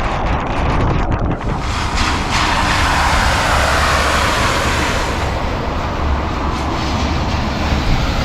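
Heavy rain pouring down in a loud, steady hiss, with a low rumble of wind buffeting the microphone. In the first second or so, scattered sharp taps of drops hit the camera.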